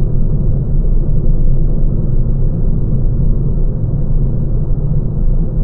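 Lancia Ypsilon driving, heard from inside the cabin: a steady, loud low rumble of road and tyre noise.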